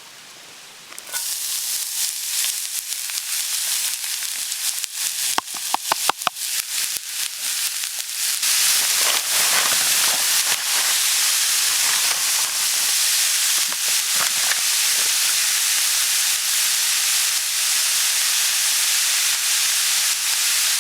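Food sizzling on a hot iron griddle. The sizzle starts about a second in, a utensil clacks against the plate several times around five to six seconds, and from about eight seconds the sizzle grows louder and stays steady.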